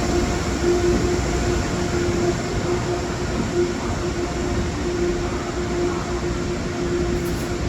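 A train running past on the main line: a steady, loud rumble of wheels on rail with a steady hum running underneath.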